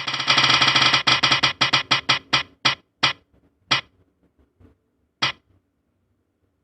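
Synthesized sound effect: a rapid run of pulses that slows down and spaces out, the last one a little over five seconds in.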